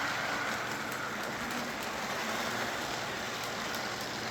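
K-Line O27-gauge toy train running on three-rail track: a steady whir of its electric motor and the rolling of its wheels on the rails. The locomotive has no factory sound system, so this mechanical running noise is all it makes.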